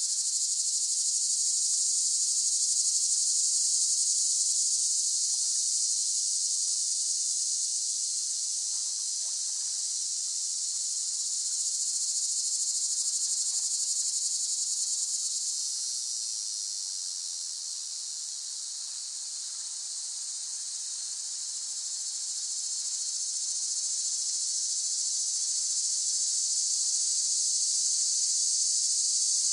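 Cicadas droning in a dense, steady high-pitched chorus that eases off a little around the middle and swells back up.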